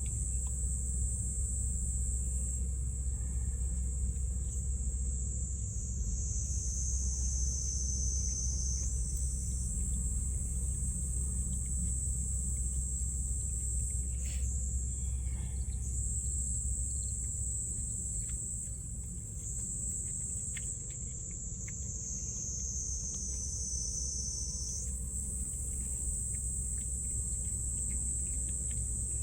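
Continuous high-pitched shrill of an insect chorus, twice dipping a little lower in pitch for a few seconds, over a steady low rumble.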